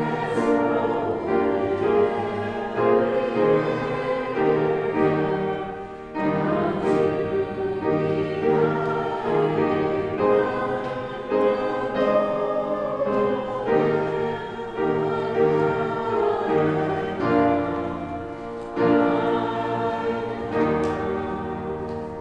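A group of voices singing a hymn in phrases of held notes over steady low instrumental accompaniment.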